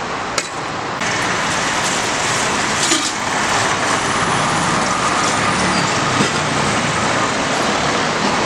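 Steady roadside traffic noise, an even hiss of passing vehicles, which jumps louder suddenly about a second in.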